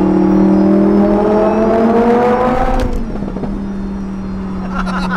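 Supercharged Lamborghini Huracán V10 with an aftermarket VF Engineering exhaust, heard from inside the cabin, accelerating with its pitch climbing steadily for nearly three seconds. The pitch then drops suddenly with a short crack, and the engine runs on at a steady lower drone.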